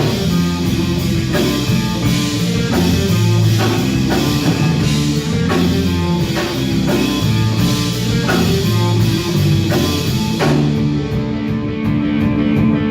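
Live rock band playing an instrumental break: electric guitars and bass over a steady drum-kit beat, with no vocals. The cymbals drop out about ten seconds in while the guitars keep going.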